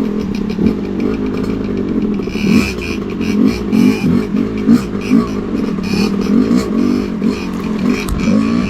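Two-stroke dirt bike engine revving, its pitch rising and falling again and again, with scattered rattling clicks.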